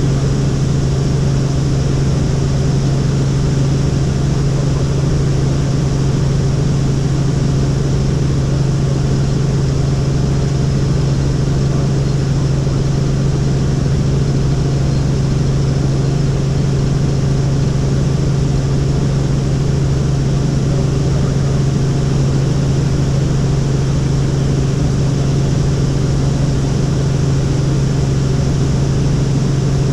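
Helicopter in flight: a steady drone with a strong low hum under a constant rushing noise, unchanging throughout.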